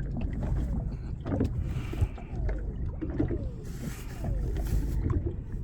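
Small fishing boat's engine idling with a steady low hum. Short falling squeaks and two spells of water hiss, about two seconds in and near the end, sound over it.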